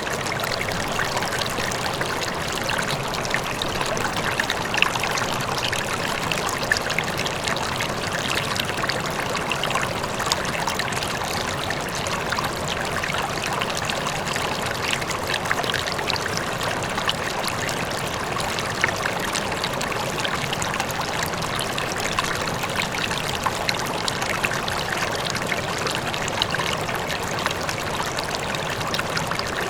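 River flowing, a steady rush of water with small splashes and trickles over it, and a faint waterfall in the distance.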